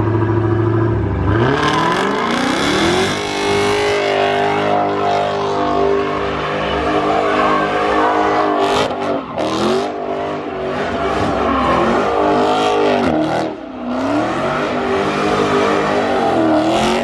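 Performance car engine revving hard, its pitch climbing and dropping several times, with a couple of sharp cracks about nine seconds in.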